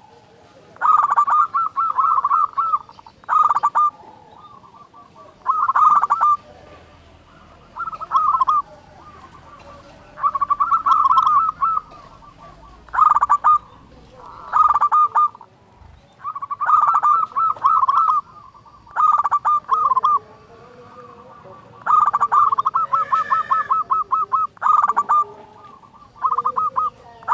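Zebra dove (local-strain perkutut) cooing: about a dozen phrases of rapid, rolling coo notes, each about a second long with short pauses between.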